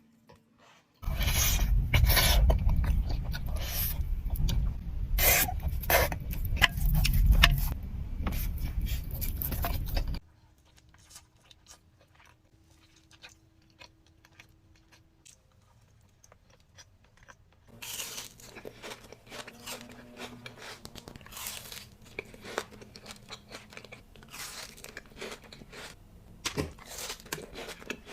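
Close-miked eating of chocolate: crisp crunching, cracking and chewing. The first stretch, to about ten seconds in, is much louder with a heavy low rumble. After a quieter spell the crunches come back, sparser, for the last ten seconds.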